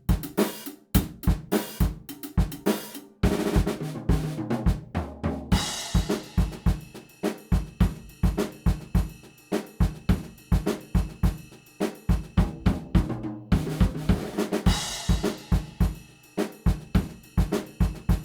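Background music led by a drum kit, with kick, snare, hi-hat and cymbals playing a steady, busy beat.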